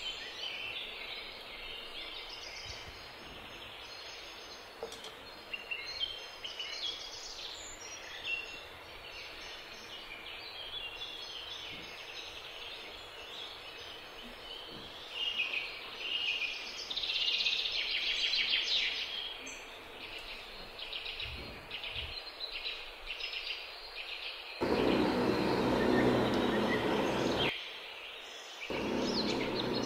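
Small birds chirping off and on over a faint steady hiss. About three-quarters of the way in, a much louder steady hiss with a low hum sets in, breaks off for about a second, and resumes near the end.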